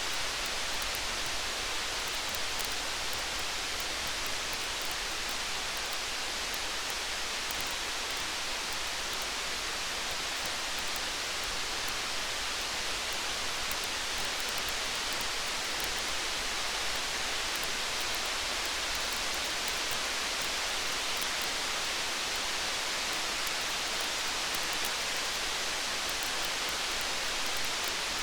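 Steady rain hiss with faint, scattered light crackles of a campfire.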